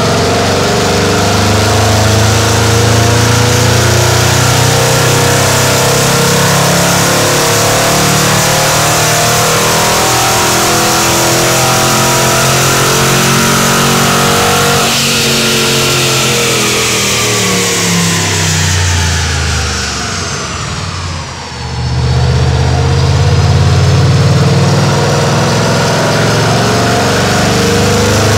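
Mercedes C63 AMG with a Capristo exhaust, its engine pulling at a steady pitch. About halfway through the note falls away over several seconds as the car slows, dips briefly, then climbs again as it accelerates.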